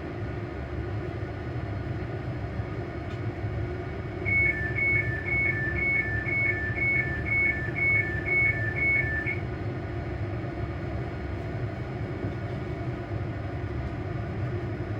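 Steady low running rumble and hum of a ScotRail Class 385 electric multiple unit's traction equipment, heard inside the train. About four seconds in, a two-tone electronic beep alternates about twice a second for some five seconds, then stops.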